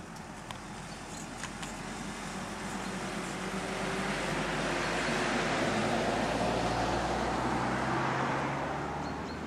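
A road vehicle passing, its engine and tyre noise growing louder over several seconds and then falling away near the end.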